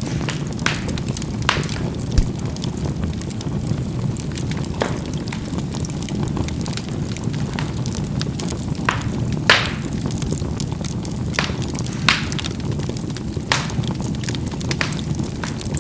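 Charcoal burning in a fireplace: a steady low rush of flame with irregular sharp crackles and pops as the coals burst, the loudest about halfway through and again a little later.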